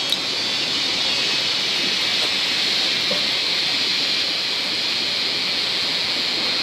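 Steady rain falling, an even, constant hiss, with a single small click just after the start.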